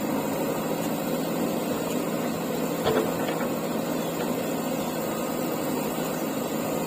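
Diesel engine of heavy earth-moving machinery running steadily, with a single faint click about three seconds in.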